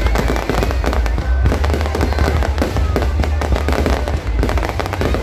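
Fireworks going off in a dense, continuous barrage: rapid bangs and crackles packed closely together over a steady deep rumble.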